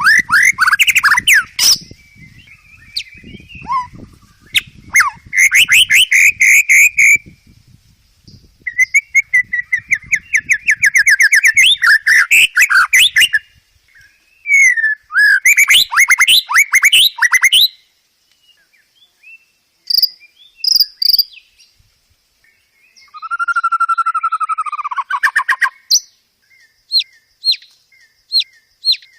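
Songbird song: several bursts of fast rattling trills, then a lower whistled phrase that slides down, and near the end a run of short, sharp chips about two a second.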